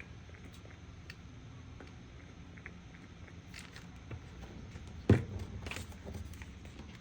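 Faint handling noises of art supplies on a craft table: scattered light clicks and taps, with one sharp, louder knock about five seconds in as something is set down.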